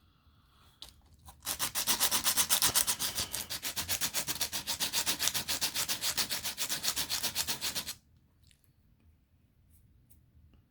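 Hand sanding of a 3D-printed plastic part in rapid, even back-and-forth strokes, about eight or nine a second. It starts about a second and a half in and stops abruptly about eight seconds in.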